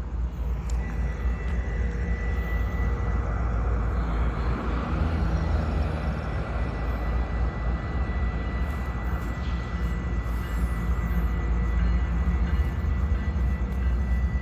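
Rock train of loaded freight wagons hauled by locomotives, rumbling steadily past just after its horn has sounded, with a thin steady high whine over the deep rumble.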